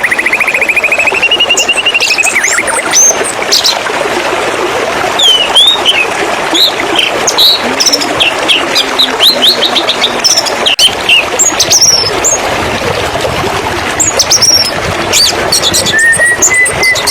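White-rumped shama singing a run of short, varied whistled notes that sweep up and down, with a long buzzy trill in the first few seconds and again near the end, over a steady rush of flowing water.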